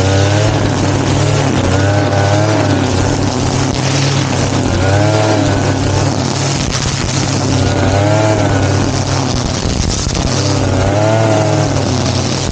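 Brush cutter engine running steadily at working speed, its higher whine wavering and swelling about every three seconds.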